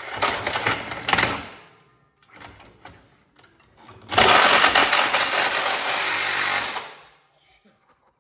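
Power saw with a metal-cutting blade cutting through an ATV's exhaust pipe, in two loud runs. The first lasts about two seconds. The second starts about four seconds in and lasts about three seconds.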